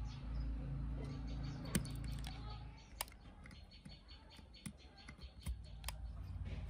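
Light clicks and taps of small parts being handled, over a low steady hum that fades out about two and a half seconds in and comes back near the end.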